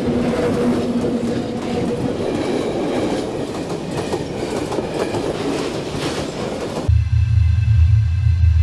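Train running past on the rails, a dense rolling rail noise with scattered sharp clicks from the wheels. About seven seconds in it cuts off abruptly and gives way to a loud, deep steady rumble.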